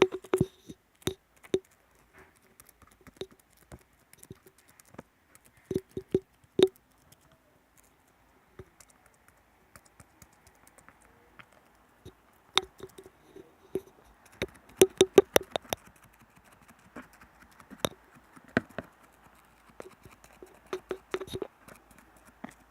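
ASMR tapping: irregular sharp taps and clicks on a small object, each with a short hollow ring. They are sparse at first, then come in a quick run of about eight taps near the middle, followed by scattered taps again.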